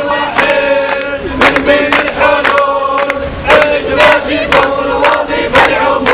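Crowd of protesters chanting a slogan in unison, with held notes, over sharp rhythmic beats about twice a second.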